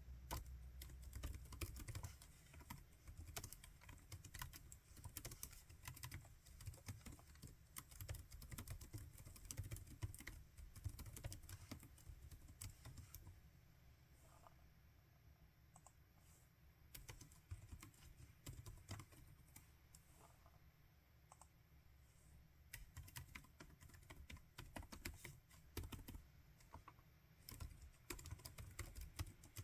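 Typing on a laptop keyboard: quick, irregular key clicks in bursts, thinning to scattered keystrokes through the middle before picking up again near the end.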